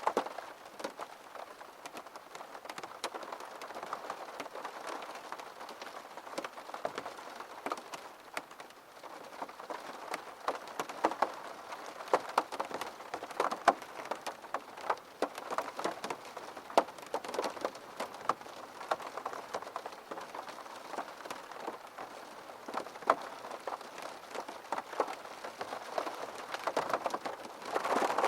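Gentle rain falling steadily, with many separate drops ticking sharply on a surface over the even patter.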